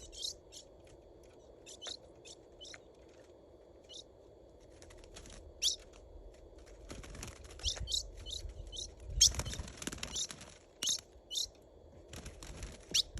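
Ultramarine grosbeak (azulão) giving short, sharp call notes that drop in pitch, spaced out at first and coming more often in the second half. About nine seconds in there is a burst of rustling that may be the bird fluttering.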